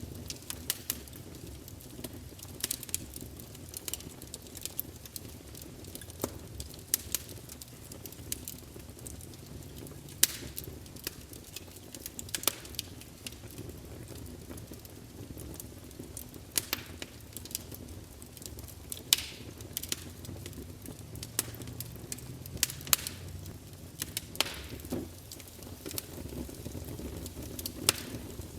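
Campfire burning: a steady low rumble of flames with frequent, irregular crackles and pops, a few of them sharper and louder.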